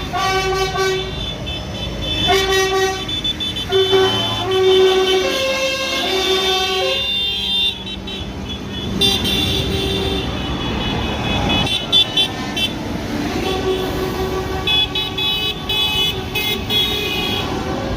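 Vehicle horns of passing convoy tractors and trucks tooting again and again over the steady rumble of their engines. The horns sound in two spells, one at the start and one in the latter half.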